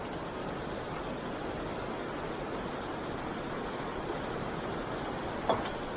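Steady rushing of flowing water, an even noise with no pitch, with one brief click about five and a half seconds in.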